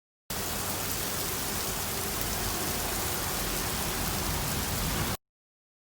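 Steady rain falling, an even hiss that starts and cuts off abruptly.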